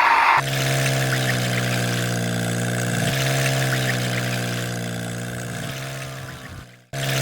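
Mini tractor's engine running at a steady pitch, after a brief loud hiss at the very start; the sound fades and cuts out for a moment just before the end, then resumes.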